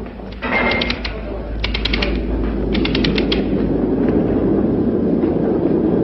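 Rail track repair machinery working on a broken rail. There are two short runs of rapid clicking over a steady mechanical drone that builds up from about a second in.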